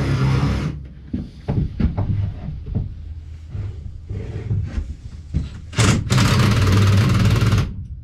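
Electric power tool running, cutting off under a second in. Knocks and taps of wood being handled follow, then the tool runs again for about two seconds and stops near the end.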